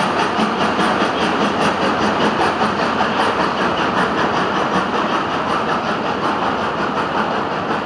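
A train pulling away, with the E646 electric locomotive at its tail and freight wagons rolling on the rails: a steady, loud rolling noise with a faint regular beat, easing slightly toward the end as it draws off.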